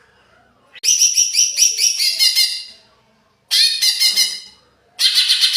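Green leafbird (cucak ijo) singing in an agitated state: three fast phrases of quick, repeated high chattering notes, the first starting about a second in and lasting about two seconds, a short burst in the middle, and another beginning near the end.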